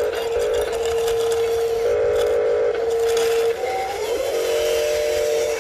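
Electric motors and hydraulic pump of radio-controlled construction models whining at a steady pitch that shifts between levels and slides up about four seconds in, with gravel rattling over the first few seconds.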